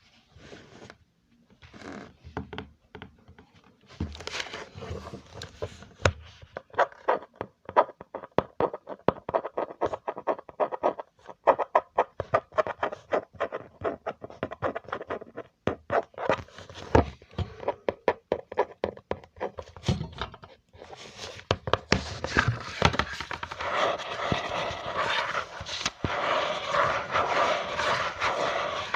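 Close-up ASMR trigger sounds: runs of quick clicking taps that thicken into a dense patter, then a steady scratching, crackling texture for the last several seconds.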